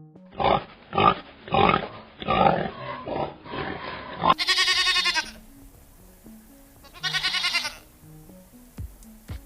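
Farm animal calls over background music: about six short rough grunts, then two long wavering bleats.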